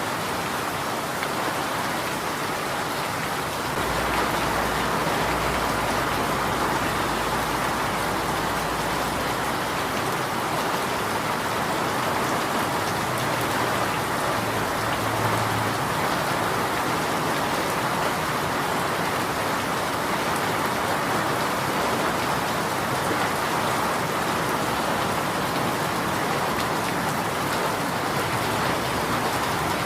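Steady rain falling, an even, unbroken hiss of drops on surfaces. A faint low rumble sits underneath for several seconds a few seconds in.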